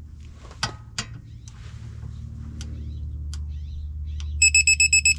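Digital torque wrench beeping rapidly in short high-pitched pulses from about four seconds in as the bolt reaches the 74 ft-lb target. Two sharp clicks about a second in, with a steady low hum underneath.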